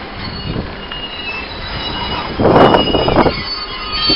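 Open freight wagons of a Class 66-hauled engineering train rolling past at close range, their wheels squealing with thin steady high tones over the running noise. The rolling noise grows louder for about a second past the middle.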